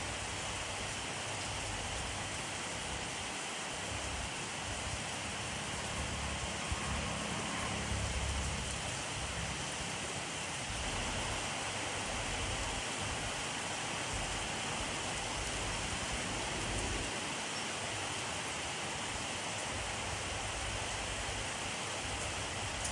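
Steady rainfall, a dense even hiss of drops, with a soft low rumble swelling briefly about seven to nine seconds in.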